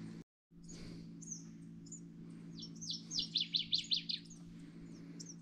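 A songbird singing: a few high chirps, then a quick run of about eight sliding-down notes in the middle. A steady low hum lies underneath.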